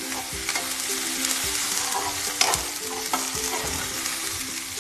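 Chopped onions and ginger-garlic paste sizzling in hot oil in a kadai, stirred with a metal spatula that scrapes and knocks against the pan several times. The onions are being fried (bhuna) until browned.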